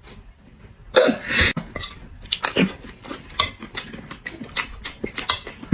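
A person chewing food loudly with open-mouthed, wet smacking, many quick smacks in a row, after a short loud burst of sound about a second in.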